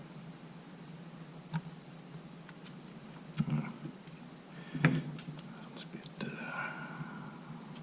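Small clicks and knocks of hand tools against plastic and metal camera parts during disassembly, the loudest about five seconds in, followed by a short squeaky scrape near the end.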